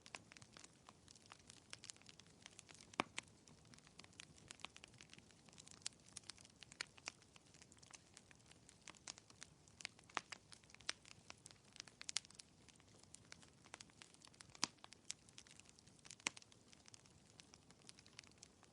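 Fireplace crackling softly: irregular small pops and snaps, several a second, over a faint low hiss.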